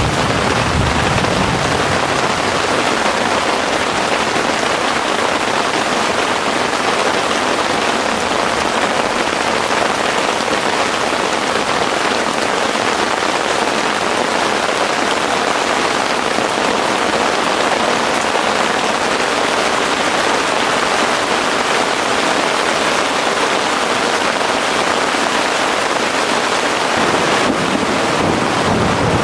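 Heavy rain falling steadily and evenly. A low rumble, likely distant thunder, dies away in the first second.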